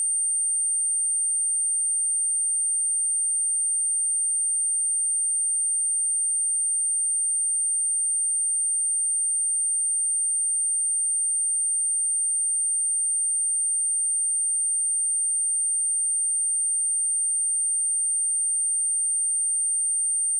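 A pure 8816 Hz sine-wave test tone, a steady high-pitched whistle held at one pitch and level without a break. It is played to test speakers or headphones and to shake dust and water out of a speaker.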